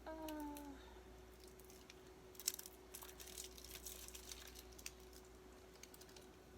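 Plastic shrink-wrap on a CD case crinkling and clicking as it is handled and picked at, in a cluster of sharp crackles from a little over two seconds in to about five seconds in. A brief falling-pitched hum of the voice comes at the very start, and a faint steady hum runs under it all.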